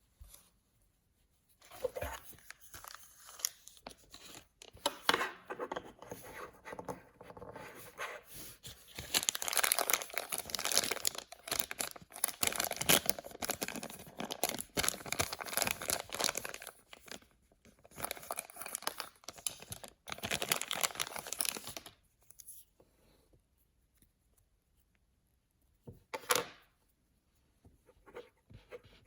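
Paper blind-bag packaging being torn open and crinkled by hand, a dense run of tearing and rustling that stops about 22 seconds in, followed by a single brief rustle a few seconds later.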